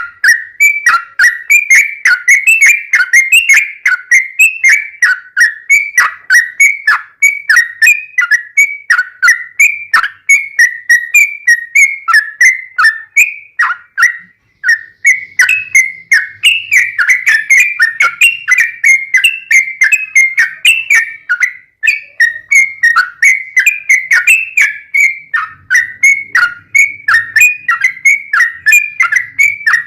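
Yellow-vented bulbul (trucukan) singing a fast, unbroken run of loud whistled notes, several a second, in the rapid 'ropelan' style with cucak rowo-like phrases, pausing briefly twice.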